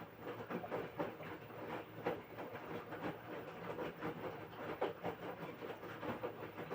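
LG washing machine drum turning during the wash part of a quick program, with the laundry and water sloshing and dropping inside in an uneven clatter of splashes, several a second.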